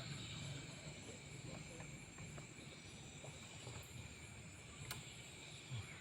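A night chorus of crickets and other insects, a steady high chirring, over a low rumble. There are a few small knocks and a sharp click about five seconds in.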